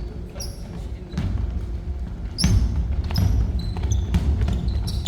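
Basketball game play in a gym: a basketball bouncing on the court in irregular thuds, with short, high-pitched sneaker squeaks on the floor.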